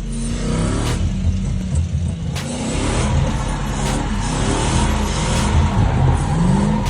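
Audi TT Mk1 drift car's engine revving hard, its pitch rising and falling again and again as it is driven sideways.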